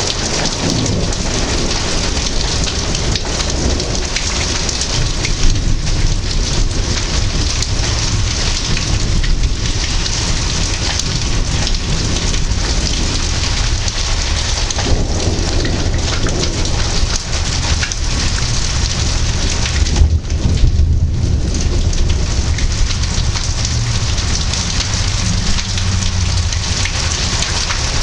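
Heavy rain pouring steadily in a thunderstorm, with low rolling thunder under it; the thunder swells into its loudest rumble about two-thirds of the way in.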